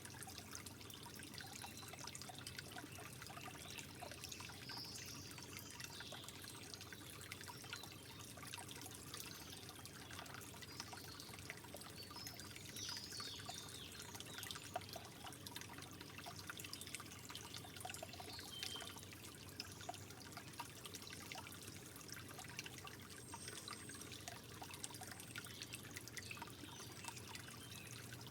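Water trickling steadily and softly, with many small drips and splashes dotted through it.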